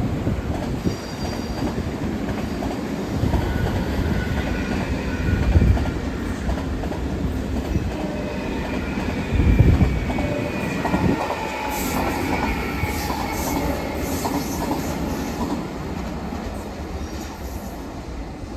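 Train running past on the rails: a steady rumble of wheels with two louder surges, and thin high squealing tones from the wheels through the middle, fading a little near the end.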